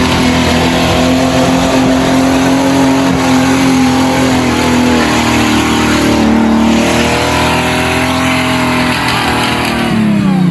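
An engine running steadily under load, its pitch wavering slightly, then falling away near the end as it slows down.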